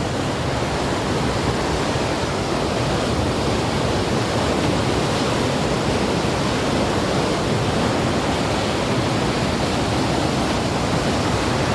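Floodwater rushing steadily through a river sluice, a continuous loud roar of fast-flowing water pouring down to the lower level.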